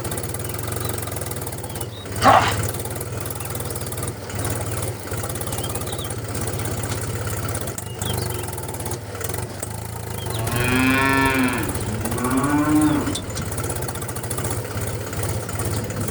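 A steady low machine hum with a sharp knock about two seconds in. Near the end come two long drawn-out animal calls, like cattle lowing, the first about a second and a half long.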